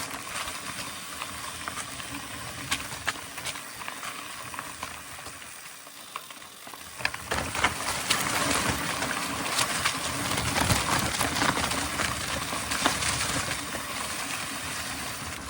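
Mountain bike rolling fast over a rough dirt trail: a steady crunch of tyres on the ground with frequent clicks and rattles from the bike, growing louder about seven seconds in.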